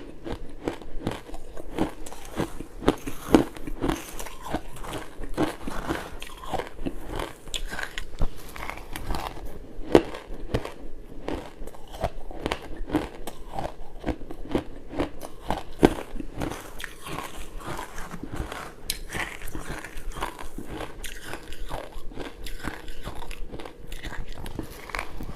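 Pink ice being bitten and chewed close to the microphone: a steady stream of sharp crunching and crackling, with a few louder cracks standing out among the rest.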